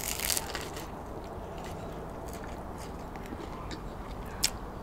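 A bite into a crusty baguette sandwich: a crisp crunch of the crust in the first second, then chewing with small crackles, and one sharper click near the end.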